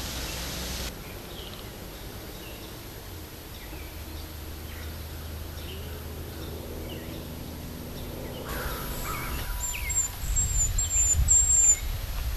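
Wild birds chirping and calling at intervals over a steady outdoor background, with a thin, high-pitched run of chirps about two thirds of the way through. Near the end a louder low rumbling noise comes in.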